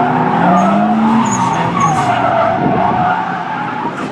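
Drift car sliding through a corner: the engine revs rise and fall while the tyres squeal steadily.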